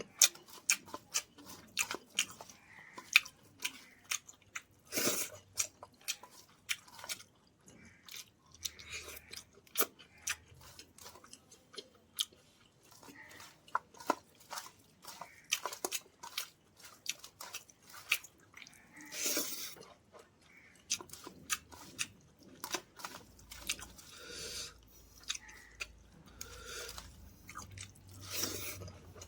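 Close-miked chewing and crunching of food, with frequent irregular crisp crackles from biting and mastication.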